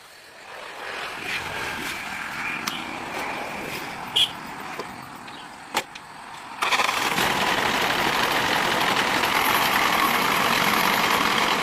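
An old truck's engine running, growing louder at first, then jumping abruptly to a louder, steady run about six and a half seconds in, with a few sharp clicks before the jump.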